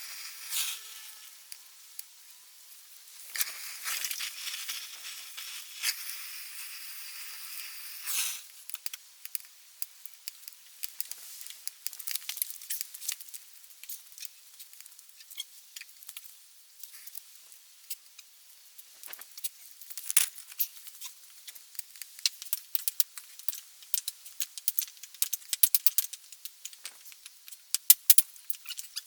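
Small objects clattering and rattling with light metallic clinks as things are moved about and put in order. A steady hiss runs for a few seconds near the start, then the sharp clicks come thicker toward the end.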